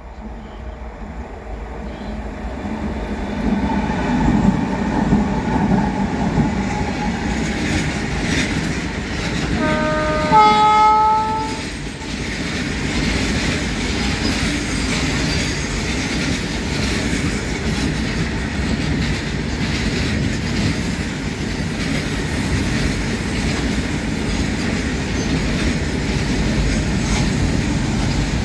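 WAG-12B electric freight locomotive hauling a goods train, growing louder as it approaches over the first few seconds. Its horn sounds in a short blast about ten seconds in. Then the long rake of covered goods wagons rolls past with a steady rumble and wheels clattering over the rail joints.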